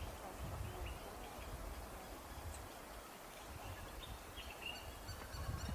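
Outdoor ambience with scattered short, faint bird calls over a low rumble.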